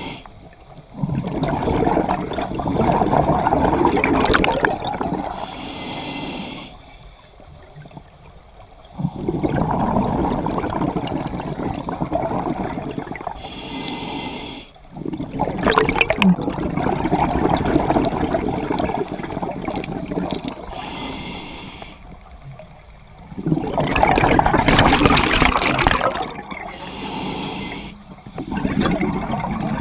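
Scuba diver breathing through a regulator underwater: long bubbling exhalations alternate with short hissing inhalations, in a slow cycle about every seven or eight seconds.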